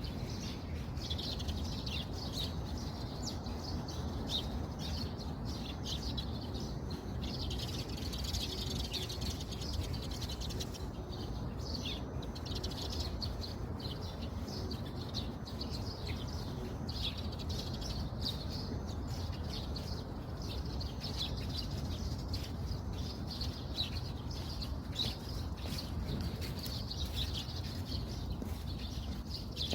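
Many small birds chirping continuously, short high chirps overlapping one another, over a steady low rumble.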